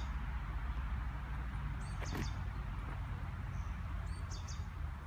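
Small birds giving short high chirps, a couple of times, over a steady low outdoor rumble.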